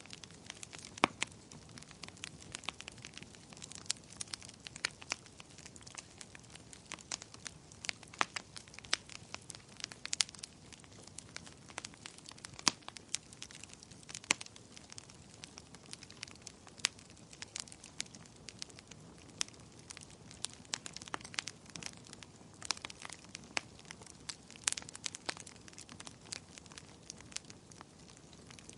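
Fire in a fireplace crackling, with sharp irregular pops and snaps of uneven loudness over a soft, steady hiss.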